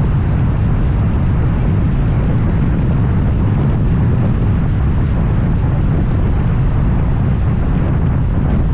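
Scooter riding at steady speed: a continuous engine and road rumble with wind rushing over the microphone.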